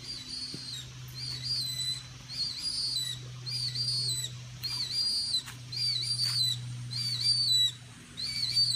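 Young Mississippi kite calling: about a dozen short, high whistles at a little more than one a second, each dropping in pitch at its end. A steady low hum runs underneath.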